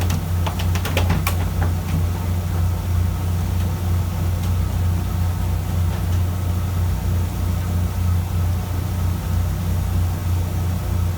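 Fishing boat's engine running with a steady low drone, with a few sharp clicks in the first second or so.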